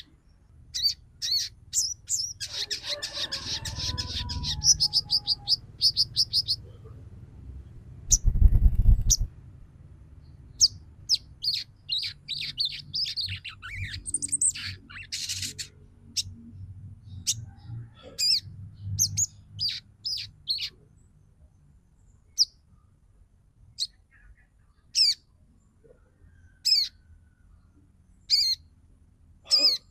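Female sogon bird calling with high, sharp chirps. A fast chattering run of chirps comes in the first six seconds, then scattered single and grouped chirps follow. This is the female's call to males, used to rouse them into song and breeding condition. A brief low thump comes about eight seconds in.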